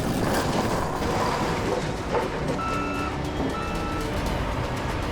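Heavy machinery's diesel engine running steadily, with a backup alarm giving two beeps about halfway through as the machine reverses.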